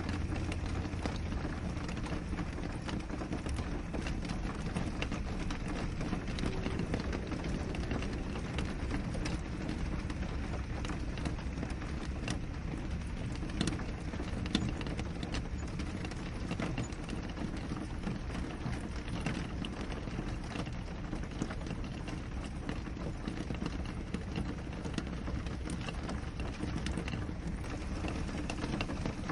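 Steady rain on a window: an even hiss with many scattered sharp drop taps.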